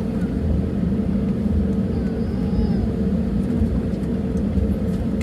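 Cabin noise of an Airbus A320neo taxiing: a steady low rumble from its CFM LEAP-1A engines at taxi power, with a faint steady hum over it.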